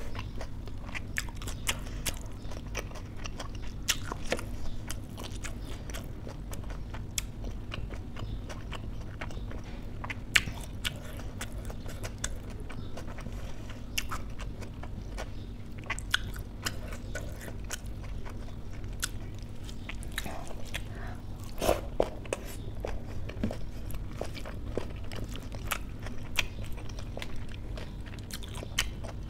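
Close-up chewing of a mouthful of rice, dal and lettuce, with frequent small wet clicks and crunches from the mouth and a louder run of them about two-thirds of the way through.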